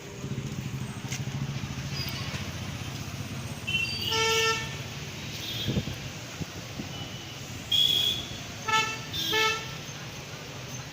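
Vehicle horns honking in road traffic over a steady low engine hum: one half-second honk about four seconds in, then a high short beep and two quick honks between about eight and nine and a half seconds.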